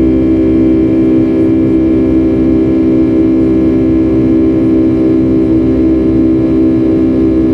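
Boeing 757-300's jet engines heard inside the passenger cabin: a steady, unchanging drone with a strong low hum and several fainter steady tones above it, over a rumble.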